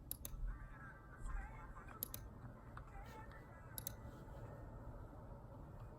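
A few sparse keystrokes on a Keychron K2 mechanical keyboard with brown switches, each heard as a pair of quick clicks, about a second or two apart, over faint background music.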